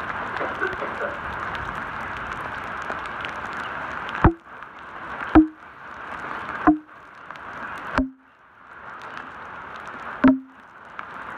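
Heavy rain falling on a road: a steady hiss of rain, then about five loud taps, each with a short low ring, a second or two apart, from drops striking close to the microphone. The rain hiss briefly drops away after each tap.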